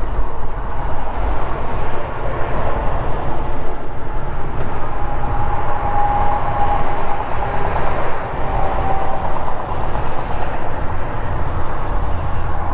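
Steady engine and road noise of a Volvo 780 semi-truck driving at highway speed, heard inside the cab. A faint high whine comes and goes about halfway through.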